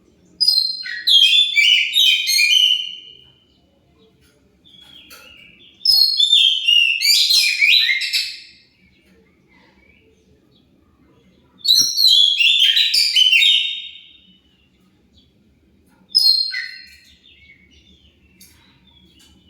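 Oriental magpie-robin (kacer) singing in four loud bursts of rapid, varied whistled phrases, each a couple of seconds long and a few seconds apart. This is lure song of the kind played to make other magpie-robins answer.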